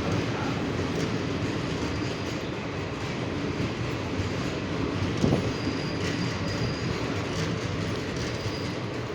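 An Indian Railways train running with a steady rumble. There is a single knock about five seconds in, and a faint high wheel squeal comes and goes after it.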